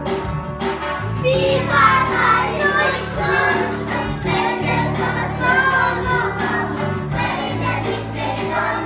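Music with voices singing over held low accompanying notes.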